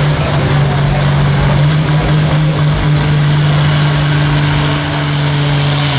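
Pulling tractor's engine running loud at a steady, even pitch, with a rough exhaust noise over it.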